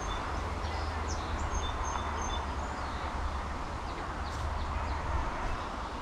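Small songbirds twittering in short, high chirps over a steady low rumble and hiss of outdoor background noise.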